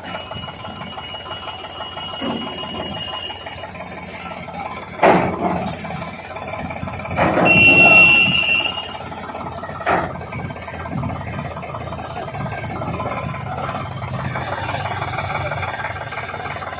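Diesel tractor engine running at idle, with a few short louder surges about five seconds in, again between seven and nine seconds, and around ten seconds.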